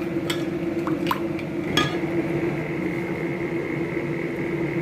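A spoon stirring a thin sauce in a bowl, clinking against the bowl about four times in the first two seconds, over a steady background hum.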